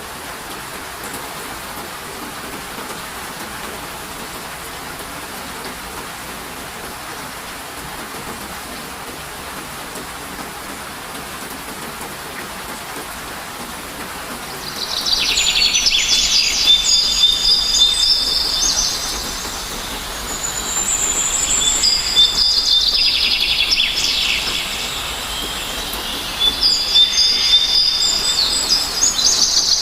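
Steady rain falling. About halfway through, a songbird starts singing loudly over it in three long spells of rapid, high-pitched chirping phrases.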